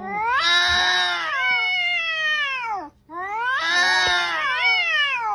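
Domestic cat yowling: two long drawn-out yowls, each rising and then falling in pitch, with a short break between them.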